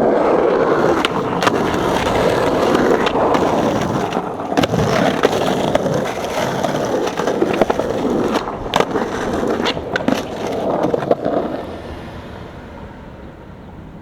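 Skateboard wheels rolling on pavement: a steady rough rumble with scattered sharp clicks and knocks, dying away near the end.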